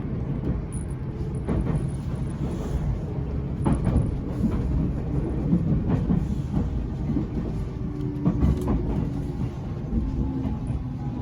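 JR 373-series Limited Express Fujikawa electric train running along the track: a steady low rumble with occasional sharp knocks from the wheels. A few faint steady tones come in near the end.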